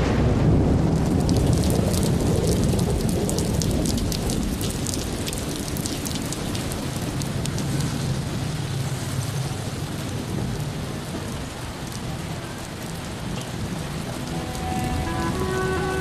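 Heavy rain falling, with a low rumble of thunder in the first few seconds and drops spattering close by; the rumble eases off as the rain goes on.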